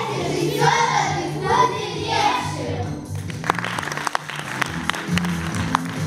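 Several voices singing over an instrumental backing track for about three seconds. Then scattered clapping over the continuing music.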